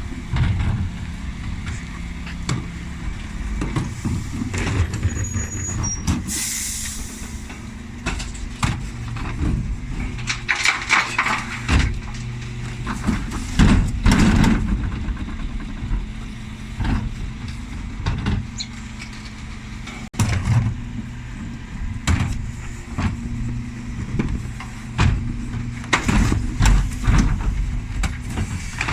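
Dennis Elite 6 refuse lorry's diesel engine running steadily while wheelie bins are handled and emptied, with repeated knocks and clatter throughout. A short air-brake hiss comes about six seconds in.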